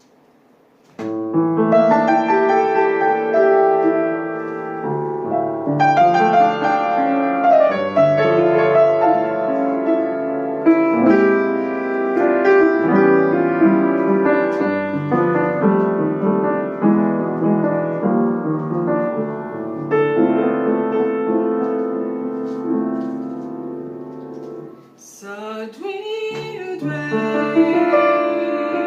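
A piano playing a slow introduction in sustained, ringing chords. About 25 seconds in, a female voice begins singing over it.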